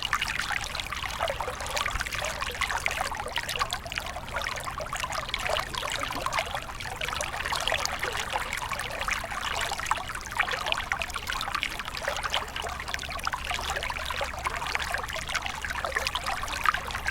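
Small stream of water trickling and splashing steadily, a dense babble of small splashes.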